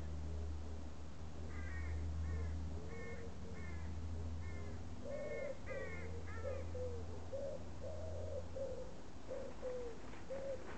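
Birds calling: a run of short, harsh, crow-like calls, about two a second, then lower repeated cooing notes from about halfway through, over a steady low rumble.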